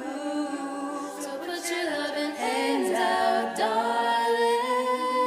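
A cappella group singing wordless harmonies of several voices, with no instruments. About three and a half seconds in, the voices settle into a long held chord.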